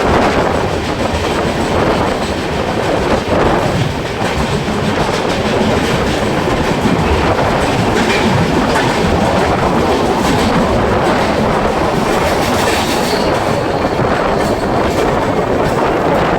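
Andaman Express passenger train running, heard on board: a loud, steady rumble and clatter of wheels on the rails.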